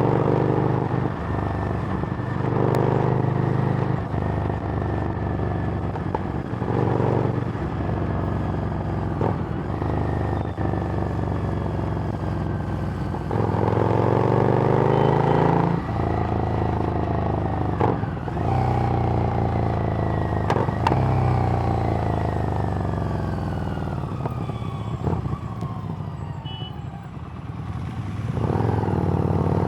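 Harley-Davidson Street Rod's 750 cc V-twin through a Screamin' Eagle exhaust, under way: it pulls up through the revs in short bursts in the first part and in a longer climb about halfway, then winds down with a falling pitch for much of the second half before opening up again near the end.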